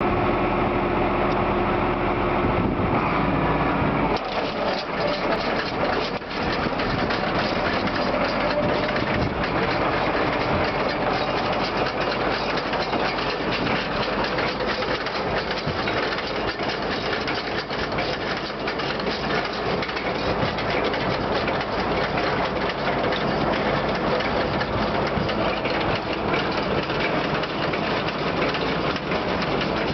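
Tractor engine running steadily, then from about four seconds in a dense mechanical clatter of a Hesston 4910 large square baler's drive running over the engine.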